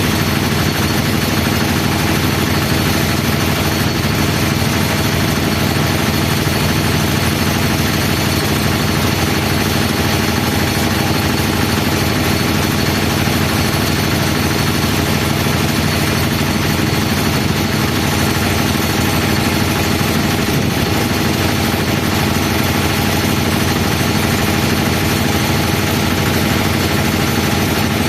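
Airbus A320's jet engines running steadily at idle as the airliner taxis in, a constant high whine over a deep rumble.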